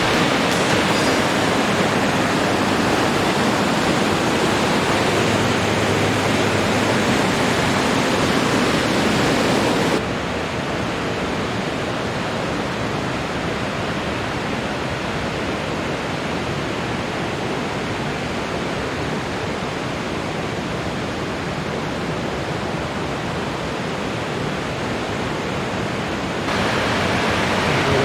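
Steady rushing of a waterfall. The sound drops suddenly and turns duller about ten seconds in, then jumps back up near the end.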